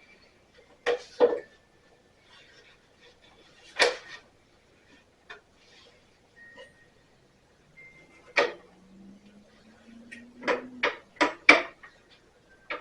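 Scattered sharp knocks and clanks, as of tools and parts being handled, ending in a quick run of about five knocks; a faint low hum rises slowly in pitch just before that run.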